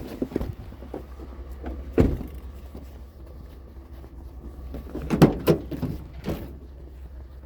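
A few separate knocks and thumps, the loudest about five seconds in, over a steady low rumble.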